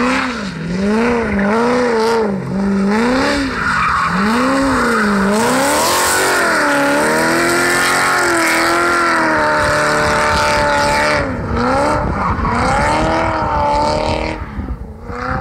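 V8 engine of a BMW E30 being driven hard in a drift. The revs rise and fall rapidly several times, are held high for several seconds while the rear tyres spin and squeal, then rise and fall again. Near the end the sound fades quickly as the car moves away.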